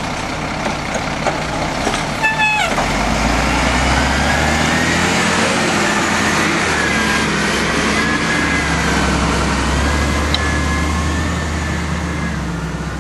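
Diesel garbage truck engine running, with a short horn toot a little over two seconds in; from about three seconds in, a deep low rumble from the engine comes in strongly and holds.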